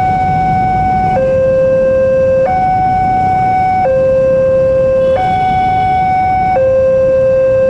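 Railway level-crossing warning alarm sounding a two-tone hi-lo electronic tone, switching between a higher and a lower note about every 1.3 seconds.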